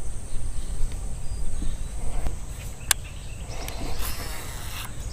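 Outdoor ambience on open water: wind rumbling on the microphone under a steady high insect drone, with a sharp click about three seconds in and a brief hiss near the end.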